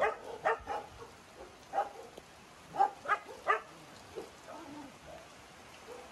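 Shelter dogs barking in short, sharp barks: a few near the start, one about two seconds in, and a quick run of three around three seconds in, over a steady hiss of rain.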